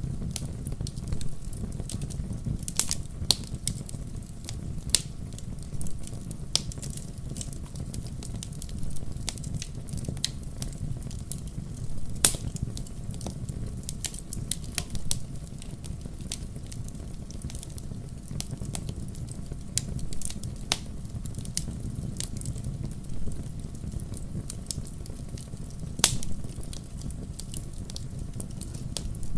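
Wood fire burning in a fireplace: a steady low rumble of flames with frequent sharp crackles and pops, including two louder pops, one about twelve seconds in and one near the end.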